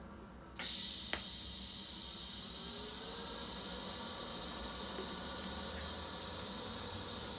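TIG welding arc on a cast iron manifold and stainless steel V-band: struck with a sharp click about half a second in, then a steady hiss with a faint high whine. A second click follows shortly after the arc starts.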